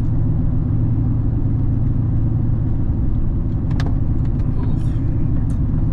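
Steady low road and engine rumble inside the cabin of a moving Chevrolet Suburban, with a few faint clicks a little past halfway.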